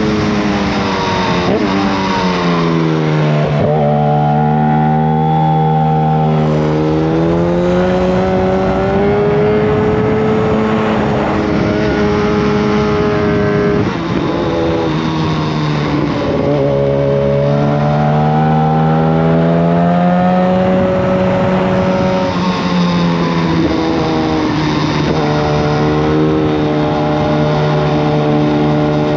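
Yamaha FZ1 Fazer inline-four running through a Mivv GP exhaust with the dB killer removed, loud and unmuffled. The engine note climbs and falls several times as the bike accelerates, shifts and slows, holding steady between changes.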